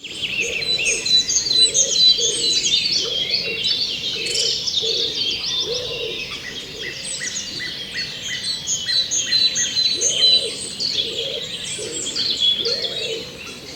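Dense chorus of songbirds, with many overlapping rapid chirps and trills. Low arched calls repeat about once a second beneath them.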